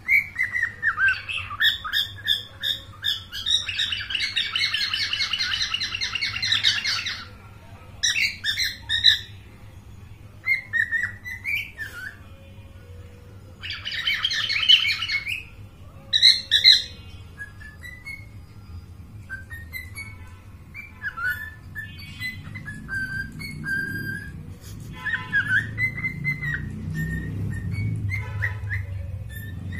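Cockatiel calling: repeated chirps and gliding calls, with two stretches of rapid chattering, then shorter whistled notes in the second half.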